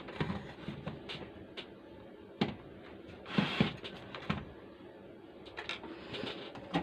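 Light clicks and knocks of tools and small parts being handled on a workbench, with a short rustle about three and a half seconds in.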